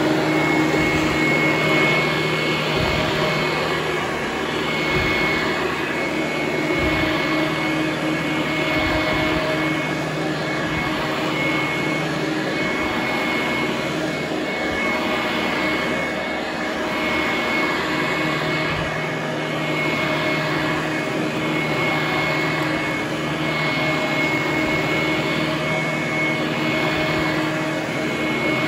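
Vintage Hoover Conquest direct-air commercial upright vacuum cleaner running on carpet, a steady motor drone with a high whine, swelling and easing every couple of seconds.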